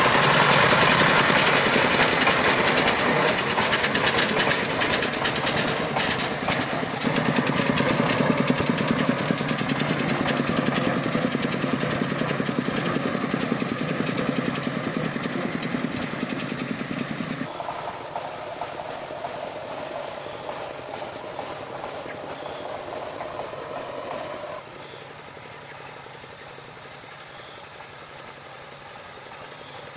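Farm truck engine running with a fast, even knocking beat, growing quieter, with sudden drops in level about 17 and 25 seconds in.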